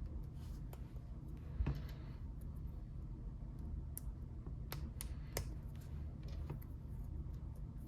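Small hard plastic Lego pieces clicking and tapping as they are handled and pressed together: scattered sharp clicks, a handful of louder ones in the middle, over a steady low hum.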